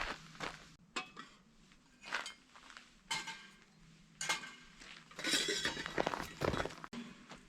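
Dishes and utensils clinking and knocking as they are handled: a string of separate clinks, with a busier clatter in the second half.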